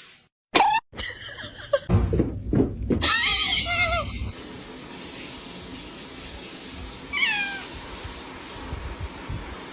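Domestic cat meowing several times, with wavering calls over the first few seconds. Later comes one short meow that falls in pitch, over a steady hiss.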